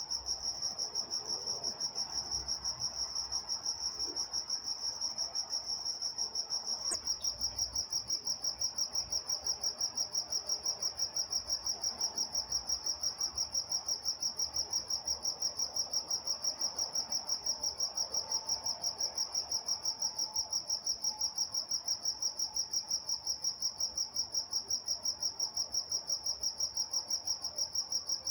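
Crickets chirping at night in a steady, evenly pulsing high-pitched chorus.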